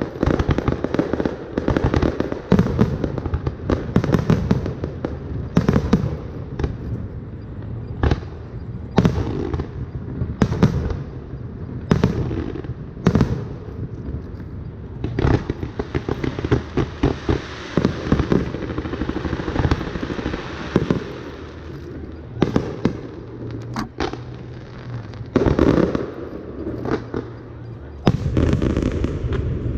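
Fireworks display: shells bursting one after another in quick, irregular succession. There is a stretch of dense crackling about halfway through.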